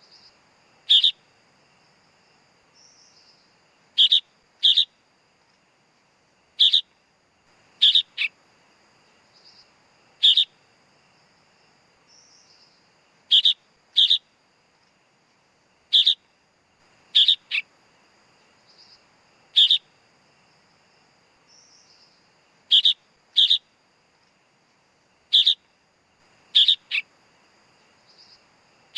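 Sooty-headed bulbul (kutilang) chick calling: short, sharp, high chirps, often in quick pairs, repeated every one to three seconds, the begging calls of a young bird.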